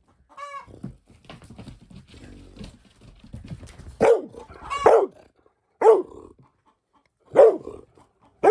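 Dogs barking in play: a high yelp just after the start, low scuffling or growling sounds, then sharp barks about once a second through the second half.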